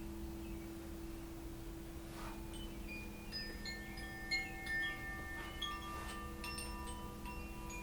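Chimes ringing, many bright tones struck at scattered moments and ringing on. They sound over a steady low drone.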